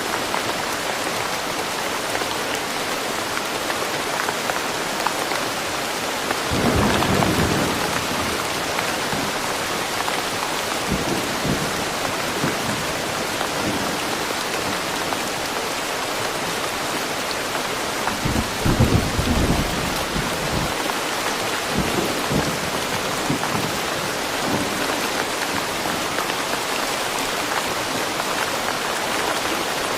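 Steady rain with rolling thunder: low rumbles swell up about seven seconds in and again, louder, around nineteen seconds, with fainter rumbles in between.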